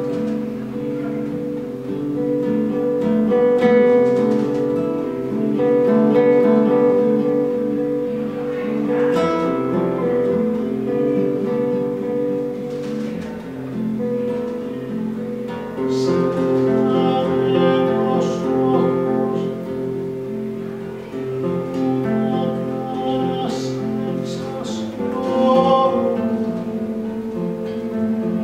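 Acoustic guitar playing a plucked, strummed passage of a song, with notes ringing over one another.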